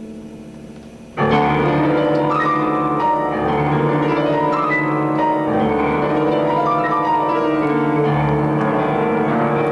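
Music led by piano, starting suddenly about a second in and then continuing loud and steady.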